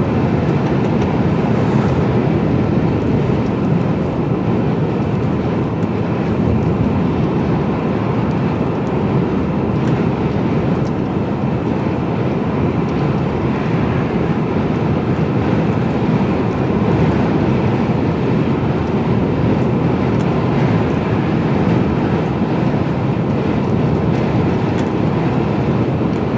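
Steady drone inside the cab of a Mercedes-Benz Actros lorry on the move: engine, tyre and wind noise.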